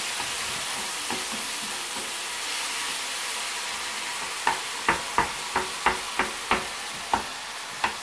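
Chopped mushrooms and onion sizzling in olive oil in a frying pan as they brown. A wooden spoon stirs them, knocking against the pan about nine times in the second half, roughly three times a second.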